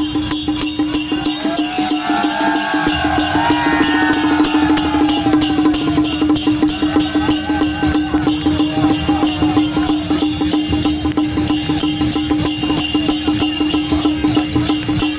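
Temple procession music led by percussion: a fast, even beat of knocks over a loud held tone. A wavering melody line comes in about two seconds in and fades by about five seconds.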